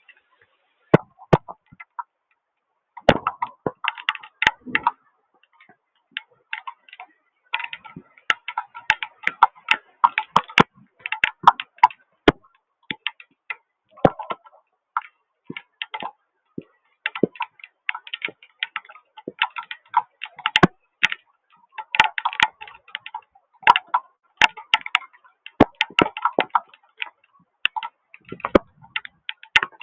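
Raindrops tapping close to the microphone: irregular sharp ticks and taps, sometimes in quick clusters, with gaps between.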